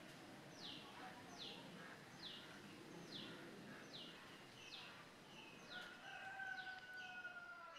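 Faint bird calling: a regular series of short, sharp down-slurred notes, a little under one a second. A longer, slightly falling whistle joins about six seconds in.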